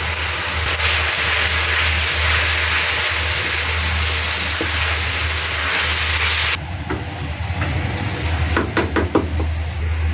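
Vegetables sizzling in a hot pan, a steady hiss that cuts off suddenly about two-thirds of the way through, followed by a few knocks of utensils against the pan, over a steady low hum.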